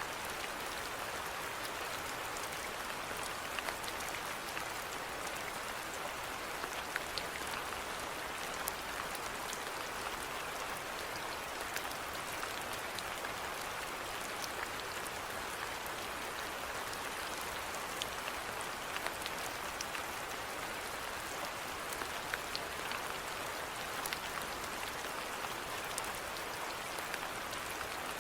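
Steady rainfall, with scattered individual drops ticking sharply over a constant hiss.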